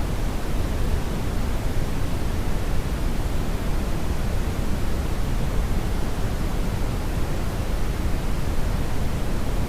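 Steady synthetic Brownian (red) noise: an even, deep rushing hiss with most of its weight in the bass and little treble, unchanging throughout.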